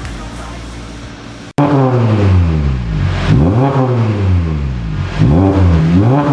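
Hyundai Grandeur HG 3.0's V6 engine through an aftermarket dual variable-valve exhaust, revved several times in short blips, each one rising and falling in pitch. Music plays faintly for the first second and a half, then cuts off suddenly as the engine comes in.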